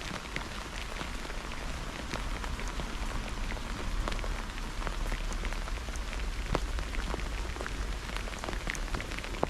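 Steady rain falling on surfaces, with many separate drops ticking close to the microphone.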